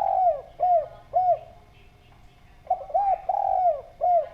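Spotted dove cooing in clear, arched coos. The end of one phrase comes first, then after a pause of about a second a second phrase of several coos, including one longer drawn-out note.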